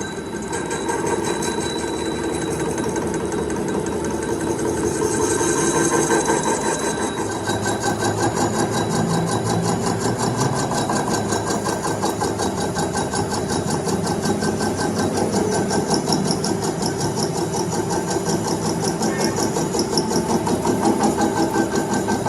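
A motor-driven machine running steadily with a fast, even clatter.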